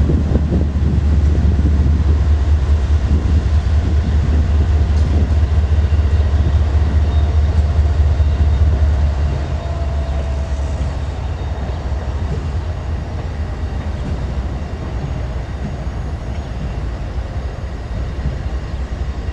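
Train passing, with a heavy low rumble that eases off about nine seconds in, then steady rolling noise.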